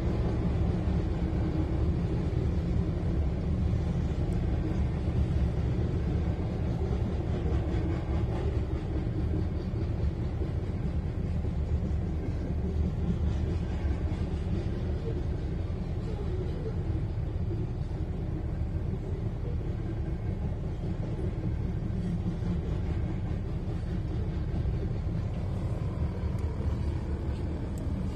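BNSF freight train of covered hopper cars rolling past at a level crossing: a steady low rumble of wheels on rails, heard from inside a car.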